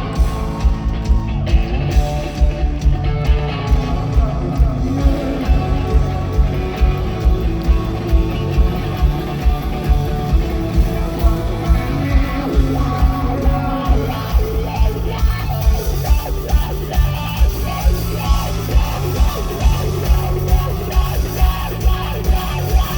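Live rock band playing: electric guitars over a heavy drum beat at about two beats a second, with a singer's voice.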